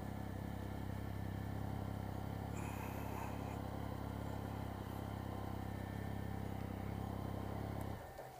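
Triumph Speed Triple's three-cylinder engine running steadily at low revs, then cutting off about eight seconds in as it is switched off.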